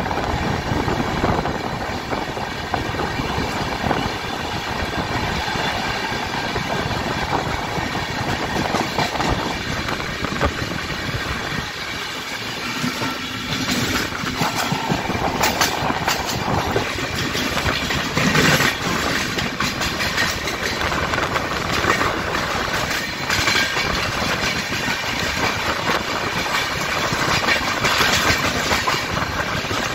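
Passenger train running at speed through a station, heard from on board: wheels clattering over rail joints and points, with the rush of coaches passing close on the next track. The clatter grows busier about halfway through.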